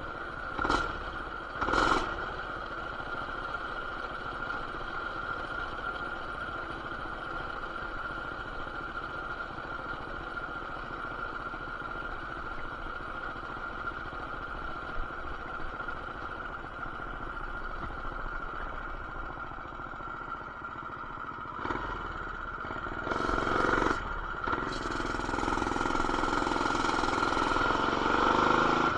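Coleman BT200X mini bike's small single-cylinder engine with aftermarket intake, header and RLV exhaust, running steadily, then revving harder from about three-quarters of the way in. Two short sharp knocks come in the first two seconds. The sound is muffled by the camera's plastic case.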